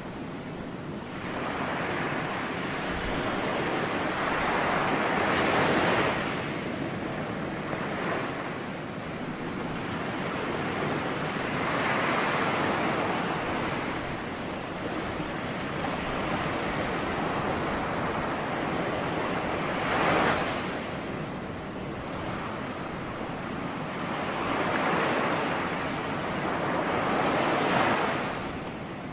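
Ocean waves breaking on the shore in a continuous wash, each wave swelling and receding, one every six to eight seconds.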